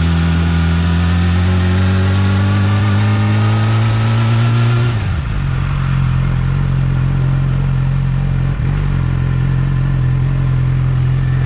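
Yamaha R6 inline-four engine on its stock exhaust, held at raised revs that creep slowly upward, then let off about five seconds in and dropping back to a steady idle.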